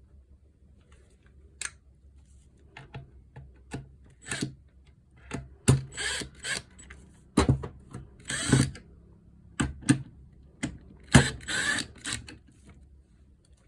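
Irregular clicks, knocks and short scraping sounds, as of parts being handled and worked on a small power tool, busiest in the middle and latter part.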